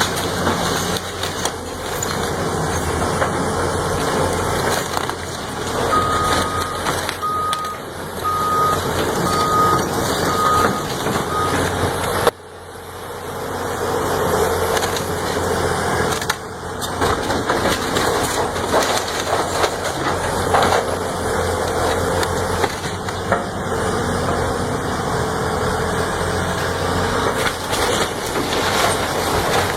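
Heavy machinery engine running with a steady low hum under dense working noise. A backup alarm beeps six times, about once a second, in the first half, then the sound cuts abruptly and picks up again with similar machine noise.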